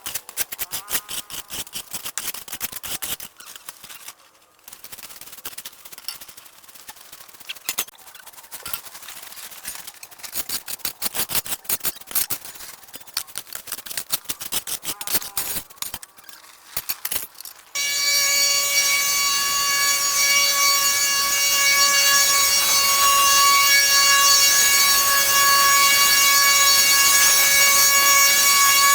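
Many quick clicks, knocks and scrapes from hand cleaning work, then about eighteen seconds in a motorised machine switches on abruptly and runs with a steady high whine over a rushing noise.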